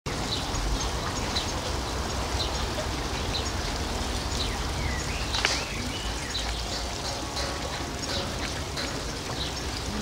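Outdoor ambience of a steady low rumble, with a small bird chirping repeatedly in short high notes about once or twice a second. There is one sharp click about halfway through.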